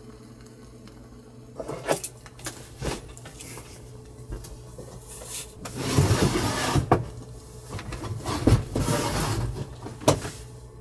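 Knocks and scraping or sliding handling noises over a steady low hum, with two longer noisy stretches in the second half.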